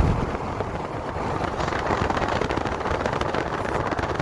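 Steady rushing wind and road noise of a moving car heard through an open window, with wind crackling on the microphone.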